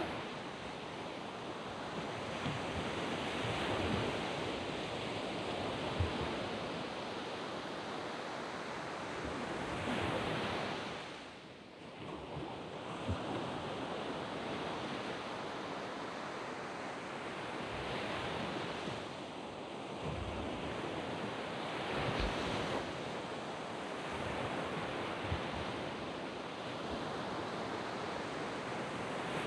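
Sea waves breaking and washing up a sand beach: a steady rush that swells with each wave every few seconds, easing briefly about twelve seconds in.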